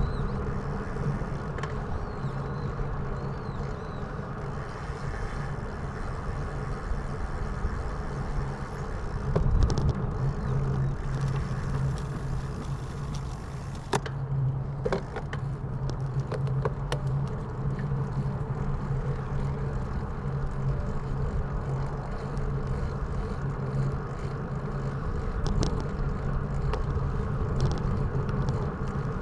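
A vehicle being ridden: a steady low running hum with road noise, and a few faint clicks about halfway through.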